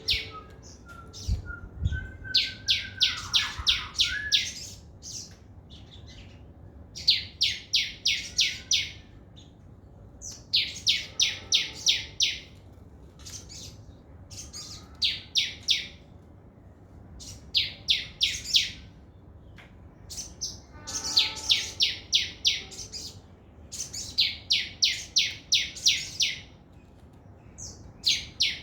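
A sogon songbird singing its fast 'trotol' song: runs of rapid, sharp, high notes, about six to eight to a run. The runs repeat every few seconds. There are a couple of low knocks about a second in.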